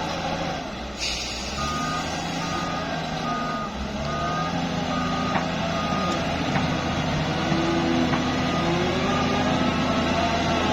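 A heavy machine's reversing alarm beeping steadily, about one short single-pitched beep every 0.7 seconds, over a running diesel engine. A short hiss comes about a second in, just before the beeping starts.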